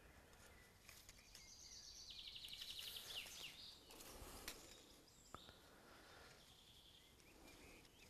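Near silence with faint bird calls: a quick high trill about two seconds in, then a few short chirps.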